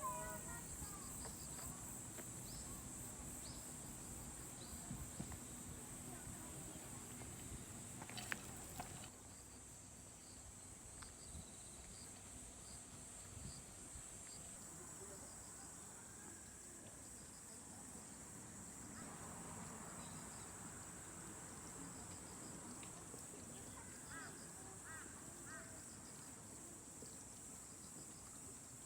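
Insects chirping steadily: a continuous high trill with a faster pulsing chirp above it. There is a brief knock about eight seconds in.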